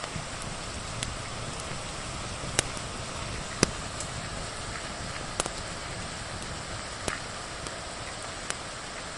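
Steady hiss of rain with a wood fire crackling over it: about six sharp pops spread through, the loudest two a second apart near the middle.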